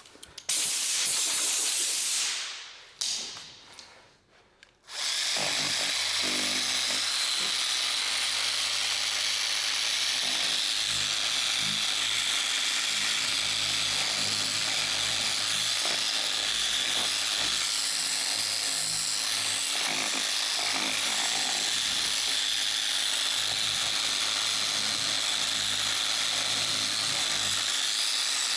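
Dual-action car polisher running steadily on paint during paint correction, starting up about five seconds in. Before it, a short hiss that fades out.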